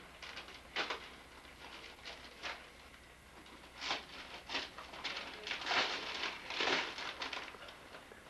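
Wrapping paper rustling and tearing in a series of short, scratchy bursts, sparse at first and thickest about four to seven seconds in.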